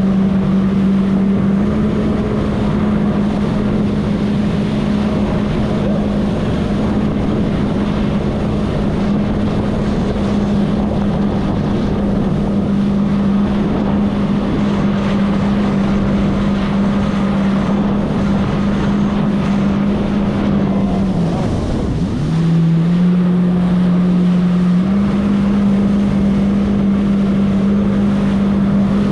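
Jet ski engine running steadily at speed, with water and wind noise on the microphone. About 21 seconds in, the engine note drops sharply and briefly, then climbs back up in two steps.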